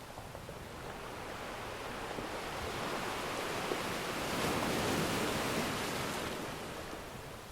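Ocean surf: a single wave washing in, swelling to a peak about halfway and then drawing back as a steady hiss.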